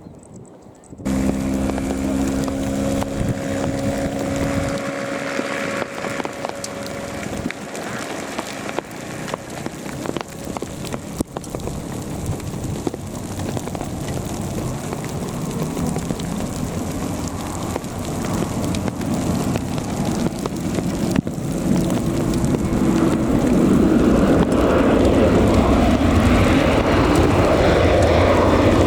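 Jet airliner engines running, with a few steady whining tones at first over a rushing noise that grows louder through the last several seconds.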